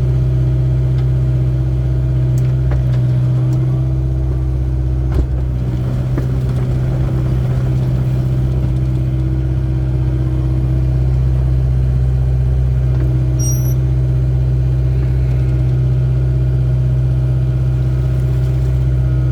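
Excavator's diesel engine running at a steady, constant pitch, with a single sharp knock about five seconds in.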